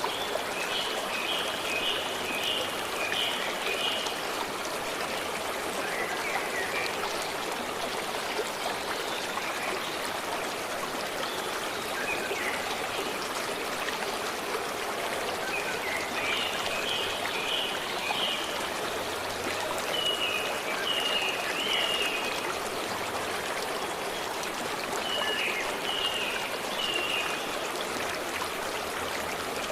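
Stream water running and trickling steadily. Over it a songbird sings short phrases of quickly repeated high notes, four times, with fainter calls in between.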